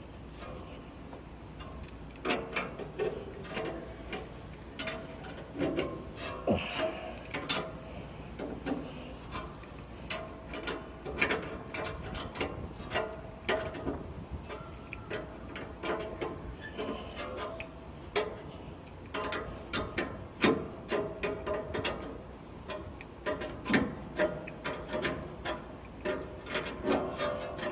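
Irregular metallic clicks, knocks and scraping of hand tools working the bolts loose on a York condenser fan motor mount.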